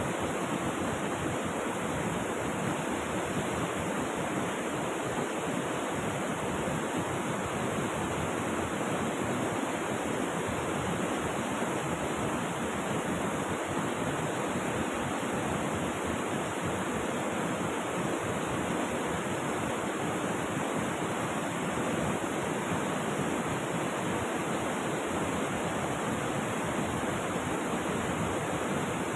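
Flowing river water rushing steadily, an even, unbroken rush that does not change.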